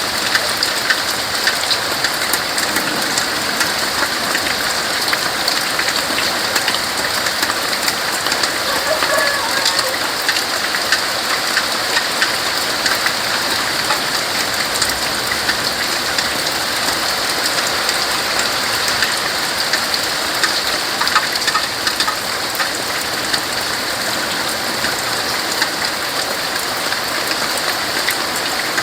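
Steady rain falling on tree leaves: a dense, even hiss of drops with many separate drips pattering through it.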